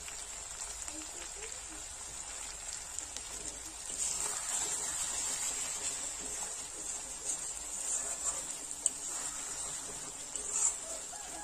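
Crab and potato masala sizzling in oil in a metal kadai as it is stirred with a metal spatula, with a few taps and scrapes of the spatula on the pan. The sizzle gets louder about four seconds in.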